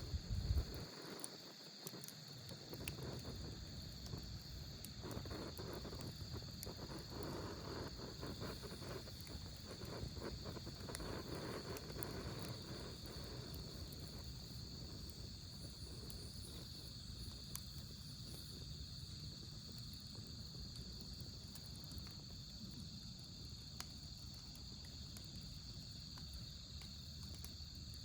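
Autumn crickets chirping in a steady high trill, over a wood fire crackling softly in a fire pit with scattered small pops. A brief low knock at the very start.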